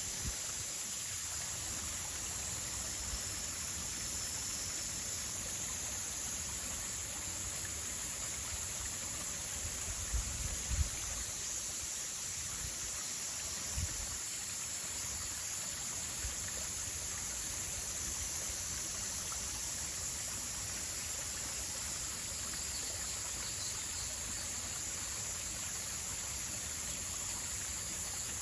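Steady outdoor nature ambience of running water, like a stream, with a constant high-pitched hiss over it. A few brief low bumps come about ten seconds in and again near fourteen seconds.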